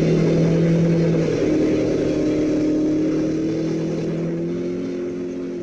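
Engine of a rear-wheel-drive Suzuki autoslalom car, heard from inside the cabin, running at steady revs under throttle while the car slides in its own tyre smoke. The sound slowly fades away.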